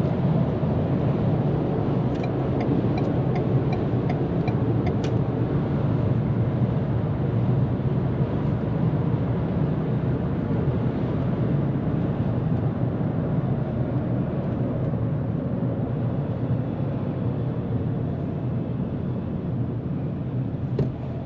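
2022 Ford Maverick pickup cruising at highway speed, heard from the cab: a steady rumble and hiss of tyre, road and wind noise. A few seconds in comes a quick run of about seven light, evenly spaced ticks, a little over two a second.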